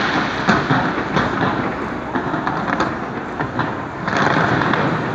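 Fireworks display going off: an irregular run of sharp bangs and crackles over a continuous rumbling noise.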